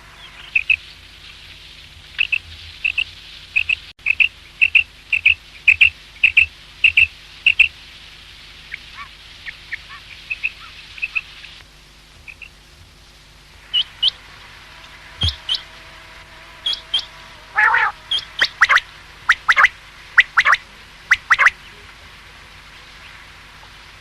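Common quail calling: a quick, regular run of short, sharp notes in the first third, fainter scattered notes after that, then louder, irregular calls in the second half.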